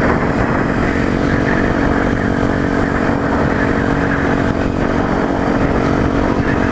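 Yamaha WR125X supermoto's 125 cc single-cylinder four-stroke engine running at a steady cruising speed, with wind rushing over the helmet-mounted microphone.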